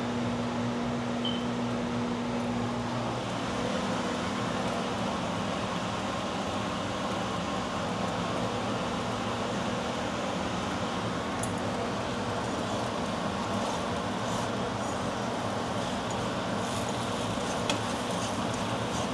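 Central air-conditioning fan running, a loud steady noise, with a low steady hum that stops about three seconds in.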